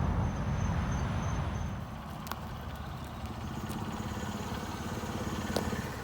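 A large engine idling with a steady low rumble, a little quieter from about two seconds in, with a few faint clicks.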